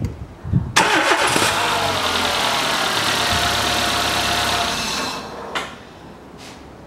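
Renault Logan's 1.4-litre petrol engine starting on its first run after a new timing belt and tensioner pulley were fitted. It catches suddenly under a second in, its revs flare up and settle, and it runs steadily. The sound drops away sharply with a click about five and a half seconds in.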